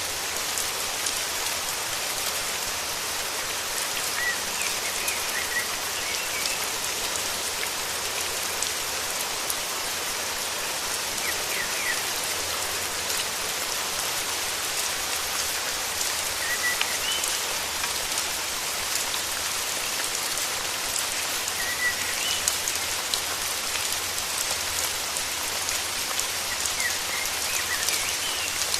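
Steady, even rainfall, with short high bird chirps every few seconds.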